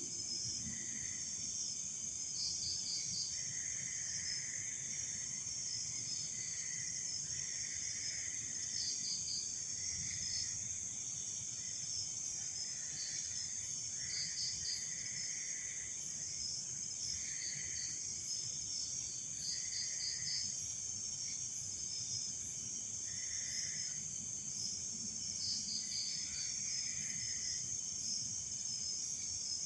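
Night chorus of crickets and other insects: a steady high trill with shorter chirps repeating over it every second or two.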